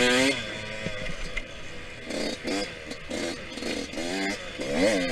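Yamaha YZ125X's single-cylinder two-stroke engine racing around a motocross track, its pitch rising and falling again and again as the throttle is opened and closed through the corners and jumps.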